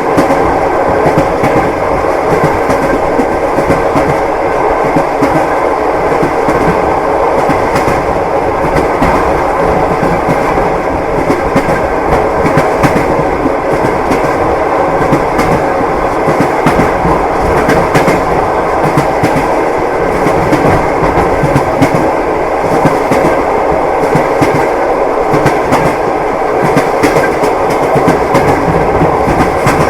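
Train wheels clattering over the rail joints, a steady rhythmic clickety-clack over a continuous rumble of a moving railway carriage.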